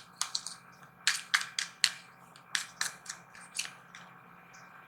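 Tarot cards being handled and drawn from the deck: a series of crisp card flicks and taps in two short clusters.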